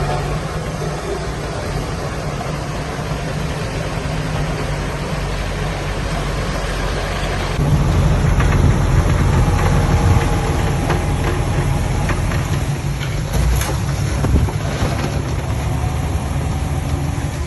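Diesel engine of heavy earthmoving machinery running steadily, growing louder about eight seconds in. A couple of sharp knocks come near the end.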